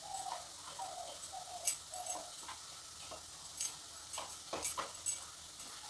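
Sliced onions and whole spices frying in oil in a pan, with chilli powder just added on top: a quiet sizzle with scattered crackles and pops.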